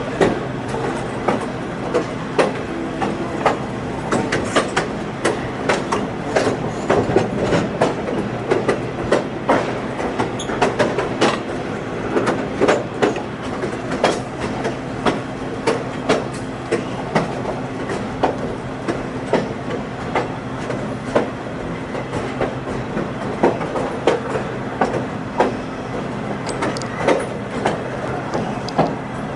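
Passenger train rolling along the track: a steady low hum under frequent, irregular clicks and clacks of the wheels over the rails.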